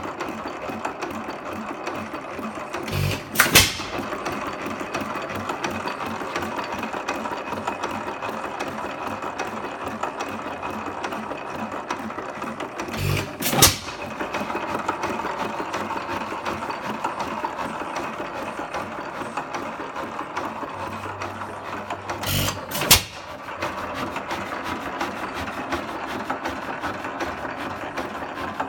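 8 hp Economy hit-and-miss engine running, clattering steadily as it coasts and firing with a loud bang three times, about every ten seconds: twice in quick succession near the start, once in the middle and twice again near the end. The governor lets it fire only when its speed drops.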